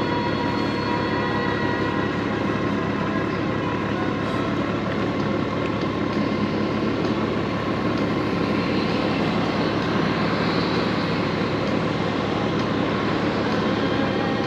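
Honda Gold Wing motorcycle cruising at a steady speed: the flat-six engine's hum under an even rush of wind and road noise, with no sharp events.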